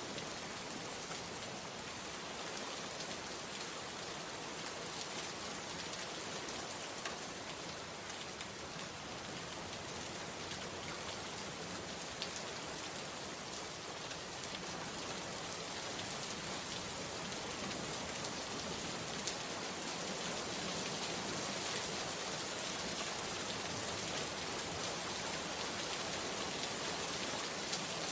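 Steady rain falling, a dense even patter with scattered drop ticks, growing slightly heavier about two-thirds of the way through.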